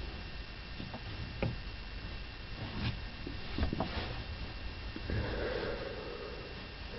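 Irregular knocks and thumps, several of them clustered close together, followed by a longer scraping or rubbing sound, over a steady low hum in a small room.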